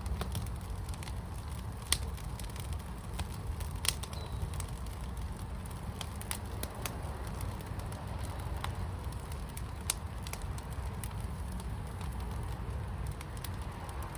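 Fire in a fire pit crackling, with scattered sharp pops over a steady low rumble; the loudest pops come about 2, 4 and 10 seconds in.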